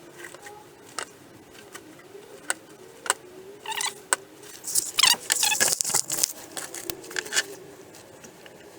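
Scattered clicks and short squeaky scraping sounds of hand work applying seam sealer over welded car floor panels. They are busiest about four to seven seconds in.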